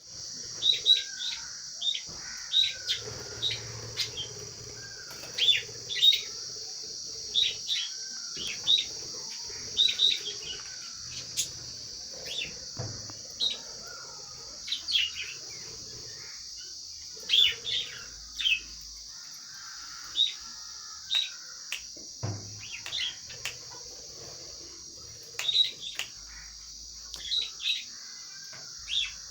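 Pet lovebirds chirping: short, sharp, high-pitched chirps, one to three a second, over a steady high hiss.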